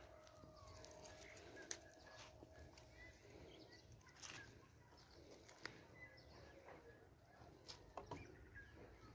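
Near silence with faint bird chirps and a few soft clicks.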